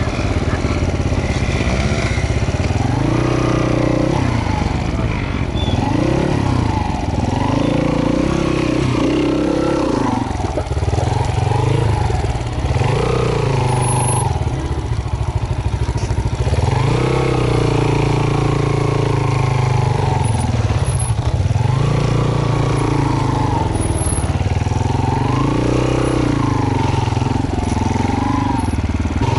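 Trail motorcycle engine revved up and eased off again and again, each rise and fall lasting a second or two, over a constant low engine rumble.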